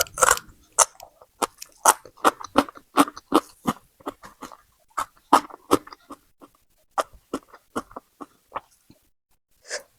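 A person chewing food close to the microphone, in a steady run of short chews about two to three a second, pausing briefly near the end.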